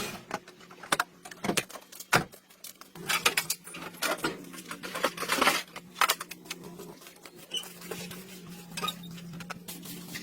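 Metal tools and small parts clinking and clattering irregularly, with a steady low hum that starts about three seconds in.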